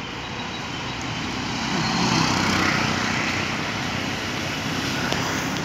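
Road traffic noise: a vehicle passing on the road, its sound swelling to a peak about two to three seconds in and then easing off.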